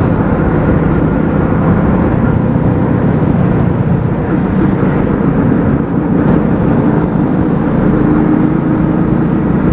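Motorcycle riding steadily at road speed: a low engine drone under steady wind and road noise.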